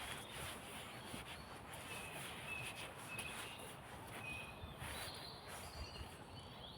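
Small woodland birds singing: a run of short high whistled notes about half a second apart, then a few higher notes, over a steady background hiss.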